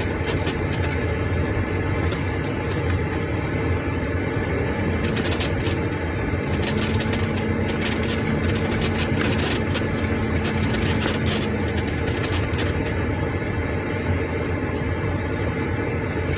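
A car moving slowly along a rough dirt track, with steady engine and tyre rumble. Many short clicks and knocks come through, thickest around the middle.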